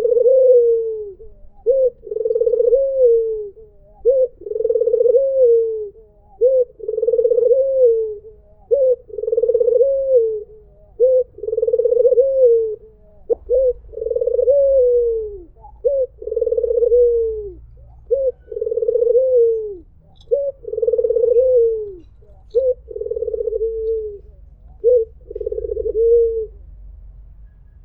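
White ringneck dove (puter putih) cooing over and over, about one call every two seconds. Each call is a short note run into a longer coo that drops in pitch at its end. The calls stop shortly before the end.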